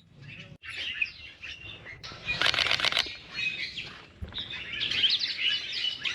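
Birds chirping and calling in quick, short notes, with a louder harsh burst of calling about two and a half seconds in.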